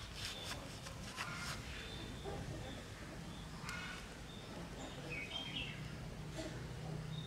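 Small birds chirping briefly a few times over a steady low background noise.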